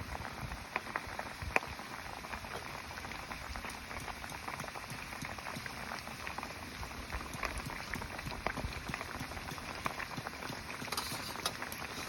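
Food cooking over a campfire: a steady bubbling sizzle full of small crackles and pops.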